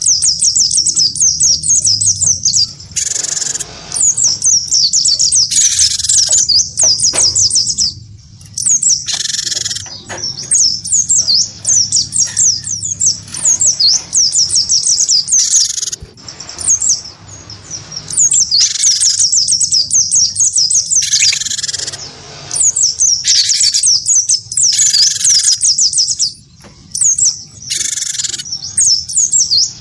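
A cinereous tit (gelatik batu) and a white-eye (pleci) singing against each other. A fast, high twitter runs almost without break, and louder, harsher call phrases cut in every few seconds.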